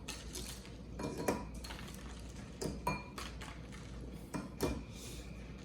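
Light clinks and knocks of hard-boiled eggs and a utensil against a bowl, about seven spaced irregularly, as the eggs are taken out of an ice-water bath.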